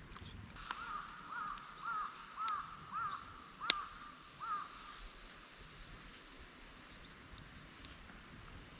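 A crow cawing in a series of about seven calls, roughly two a second, that stops about halfway through. A single sharp click cuts in among the caws, and a few faint high chirps follow near the end.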